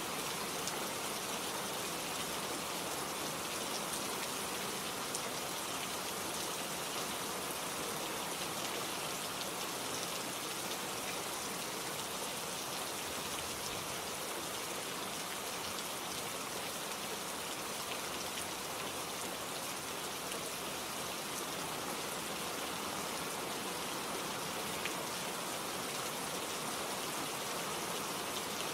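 Steady rain falling, with many fine drops pattering on leaves and surfaces.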